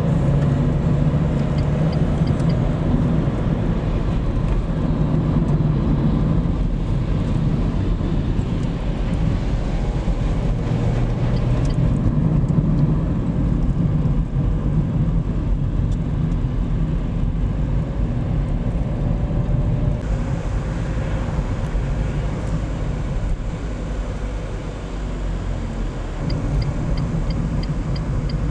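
Steady low road and engine rumble from inside a moving car. About two seconds before the end, a quick, even ticking starts.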